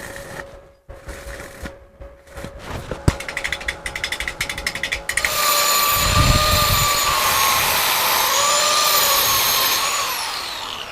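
A handheld power tool runs with a steady high whine after a run of rapid clicking, then winds down near the end.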